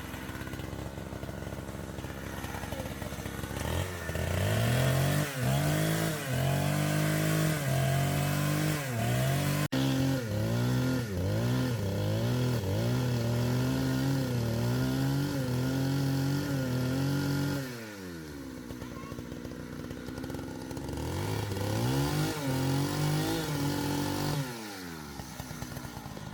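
A small engine revving hard, its pitch rising and falling again and again, dropping back to a lower idle about two-thirds of the way through, then revving up once more before settling near the end.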